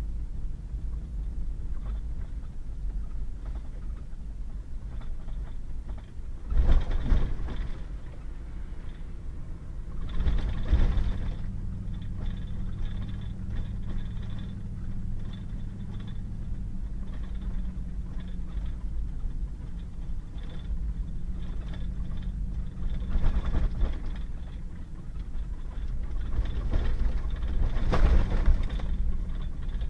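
Pickup truck driving on a wet gravel road: a steady low engine and tyre drone, with four short louder rushes of road noise about seven and eleven seconds in and twice near the end.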